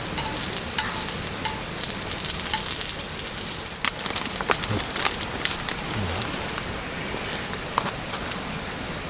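Food sizzling in a hot pan over the campfire, hissing strongest a couple of seconds in, with scattered sharp ticks.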